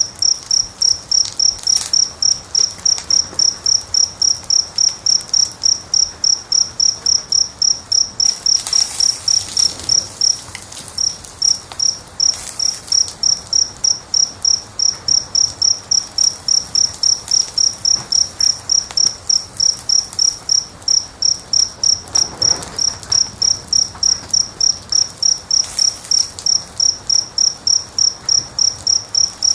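A cricket chirping steadily, about three evenly spaced chirps a second, with one short break about ten seconds in. Faint crackling of a wood fire lies beneath it.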